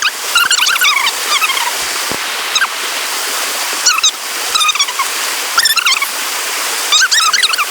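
River water rushing steadily, with a bird singing short, high warbling phrases over it every second or two.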